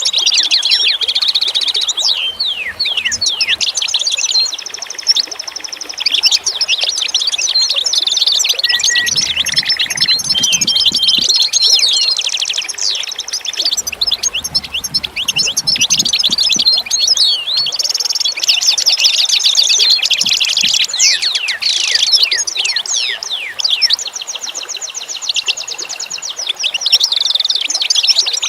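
A chorus of many small songbirds chirping and trilling together, a dense tangle of quick, high notes, many sweeping down in pitch, with no break.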